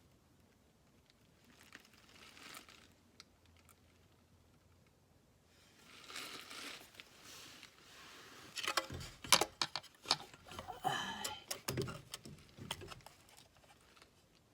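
Parts and tools being handled by hand: light rustling, then a busy run of clicks, small clanks and knocks from about the middle on, the sharpest knock about two-thirds of the way through.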